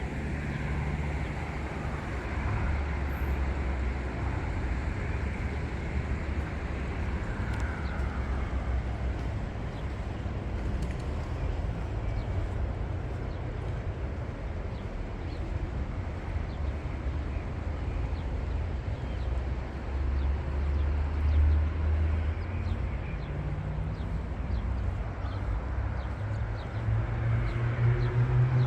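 Low, steady rumble of road vehicle and traffic noise, with a vehicle engine climbing in pitch as it speeds up near the end.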